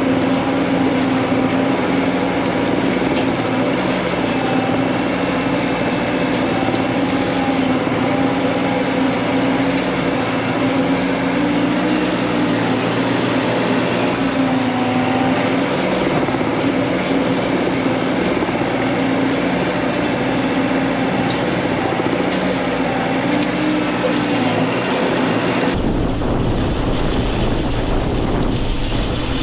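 Bobcat T66 compact track loader running steadily under load, its engine note wavering slightly, with the metallic rattle of the chain harrow being dragged. About 26 s in the sound changes abruptly to a deeper rumble.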